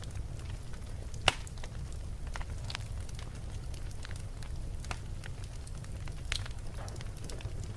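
Wood fire in a fireplace crackling, with scattered sharp pops over a steady low rumble of the flames; the loudest pop comes about a second in, another a little after six seconds.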